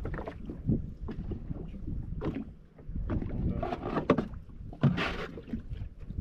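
Wind buffeting the microphone aboard a small open fishing boat, with scattered knocks and faint voices.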